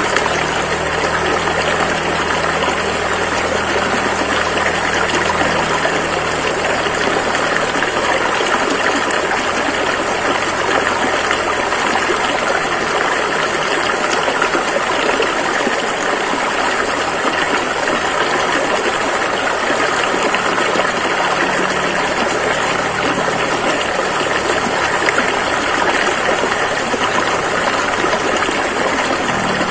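River water rushing and flowing steadily, an unbroken even rush without pauses.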